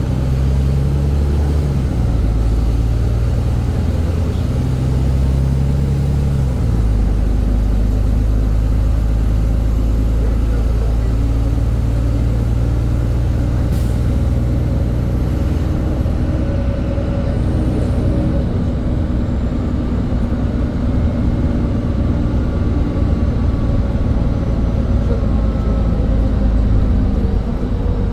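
NefAZ-5299 city bus under way, its diesel engine running steadily with road and drivetrain noise. The engine note shifts in pitch about two seconds in and again near seven seconds. A brief sharp hiss or click comes about fourteen seconds in.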